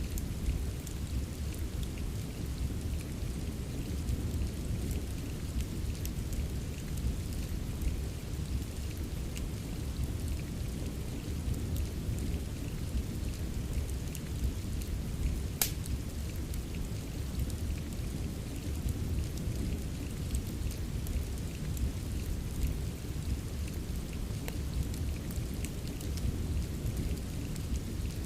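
Steady rain with a deep low rumble, mixed with the scattered crackles of a wood fire and one sharper pop about halfway through.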